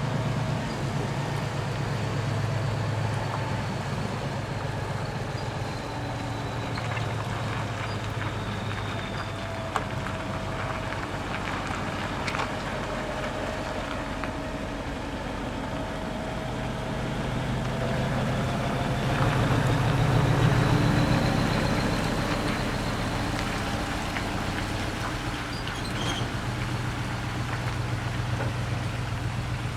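Large diesel truck engine running at low revs as the truck moves off, swelling louder about twenty seconds in and then settling back.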